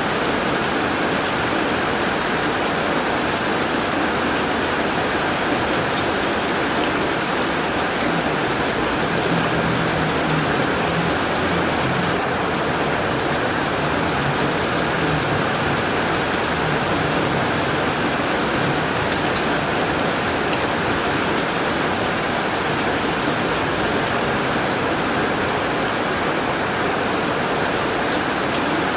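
Heavy rain pouring on a tin roof: a steady, dense hiss with many sharp drop ticks, even throughout.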